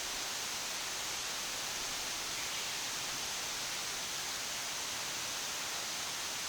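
Rushing water: a steady, even hiss of flowing water.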